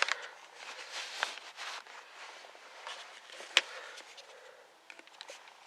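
Handling noise: scattered light clicks and rustling, with one sharper click about three and a half seconds in.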